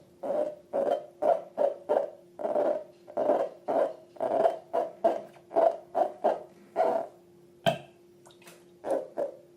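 Slime being squeezed and worked by hand: a quick run of short, wet squelches, about two a second, with a sharp click about three-quarters of the way through.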